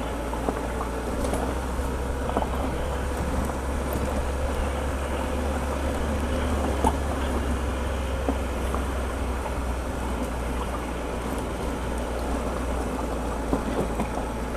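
Triumph Tiger 1200 motorcycle being ridden: steady engine and road noise with no change in pace.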